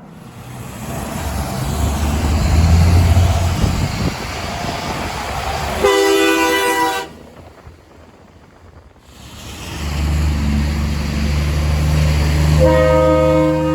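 Two trucks pass in turn, each with a rising engine rumble followed by a loud blast on a multi-note air horn (a chord of several tones). The first blast lasts about a second and cuts off suddenly; the second comes near the end.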